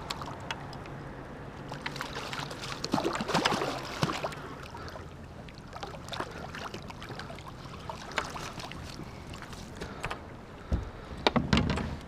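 Water splashing and sloshing around a kayak on a river, with scattered sharp knocks, a cluster of splashes a few seconds in and a louder burst of noise near the end.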